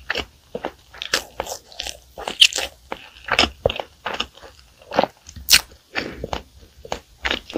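Close-miked chewing of flaky pastry, with irregular crisp crunches and crackles of the layers breaking between the teeth.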